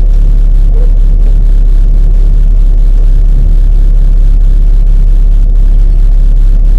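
Mini race car's engine running loud and steady at a constant pitch, with a heavy low drone.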